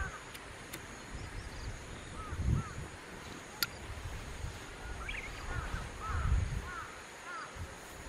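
Distant birds calling in short arched notes, in a cluster about two seconds in and a longer run from about five to six and a half seconds, over low dull thumps on the microphone and a few sharp clicks.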